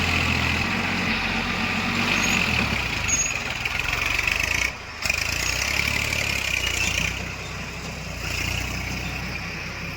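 Heavy diesel machinery engine running steadily, with a brief break in the sound a little before halfway and somewhat quieter after about seven seconds.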